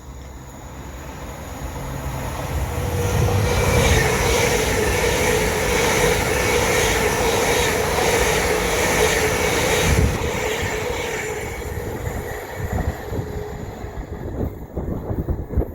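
A train passing at speed. Its sound builds over about four seconds, stays loud for about six with a steady whine and rapid repeated clicking of wheels over the rails, then fades away.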